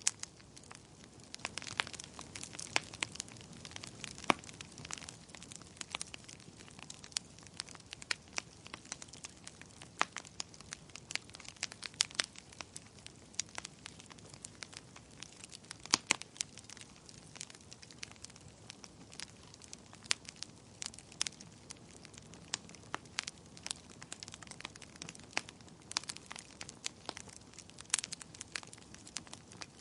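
Wood campfire crackling: irregular sharp pops and snaps, several a second, over a soft steady hiss of burning.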